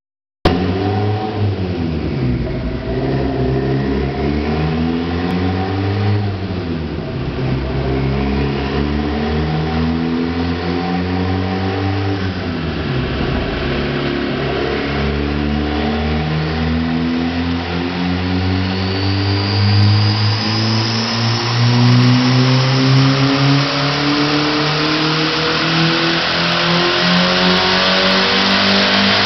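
Turbocharged Honda Civic engine on a dyno: revved up and down a few times, then held in one long, steady climb in revs under load. A high whine rises over it through the second half of the pull.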